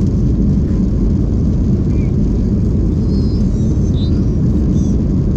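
Airplane engines and airflow heard inside the passenger cabin: a steady low rumble that holds an even level throughout.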